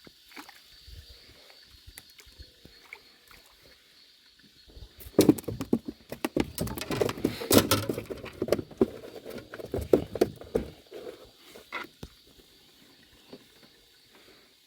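Irregular knocks, clicks and rattles, thickest from about five to eleven seconds in: a fisherman handling a freshly caught small fish and his tackle in a boat. A faint steady high hiss sits underneath throughout.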